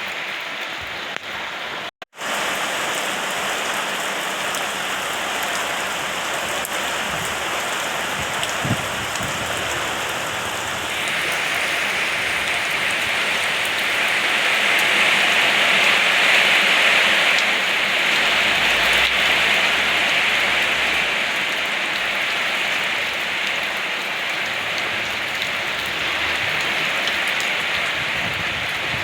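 Steady rain falling, cut off for a split second about two seconds in. It grows heavier and louder about eleven seconds in, then eases a little near the end.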